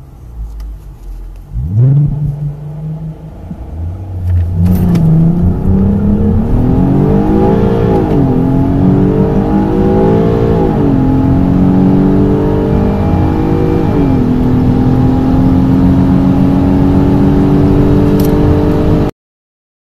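Car engine under full-throttle acceleration from a standstill. The revs climb, drop sharply three times at gear changes and rise again each time, then the sound cuts off suddenly about a second before the end.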